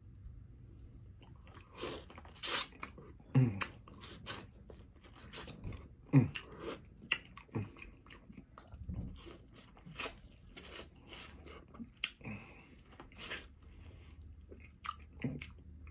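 Close-up chewing and biting into a piece of corn on the cob, with irregular wet smacks and crunches. There are a couple of short hums in between.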